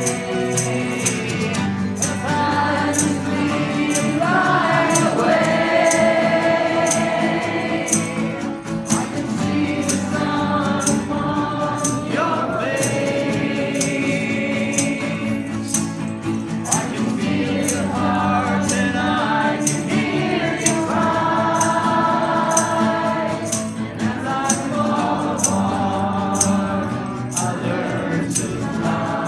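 Live rock band playing the closing section of a song, with singing voices held over the chords and a steady beat of high percussion strokes about twice a second.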